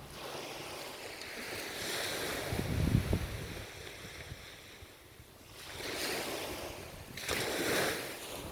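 Ocean waves breaking and washing up a shore, the surf swelling and ebbing: a loud surge about three seconds in with a low rumble, and two more surges near the end.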